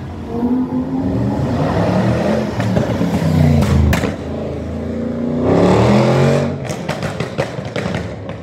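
Car engines revving and driving past in two rising-and-falling surges, the second about five to six seconds in, followed near the end by a run of sharp clicks.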